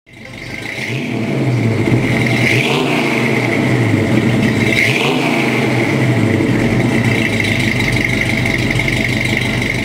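1966 Ford Mustang's engine running through its dual exhaust, revved briefly twice, about three and five seconds in, with a steady high whine over the engine note.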